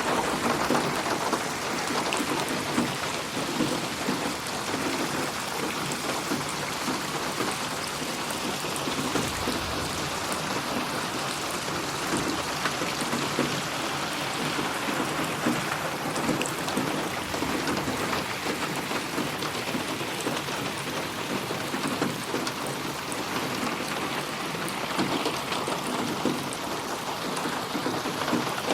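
Steady rain, a dense patter of drops on a surface, panned around the listener as 8D audio.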